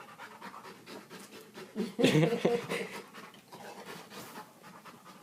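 Dog panting hard in quick, even breaths as it keeps working at a dropped metal padlock, with a louder burst of noise about two seconds in.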